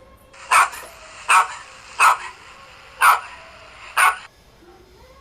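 A dog barking five times, short sharp barks roughly a second apart, over a faint recording hiss that stops after the last bark.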